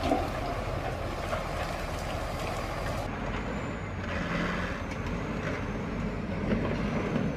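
Heavy diesel machine engine running steadily, a low rumble.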